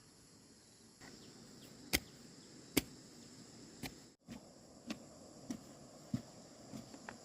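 Sharp knocks: two loud ones about two and three seconds in, then a run of softer ones about every half second, over steady chirring of insects.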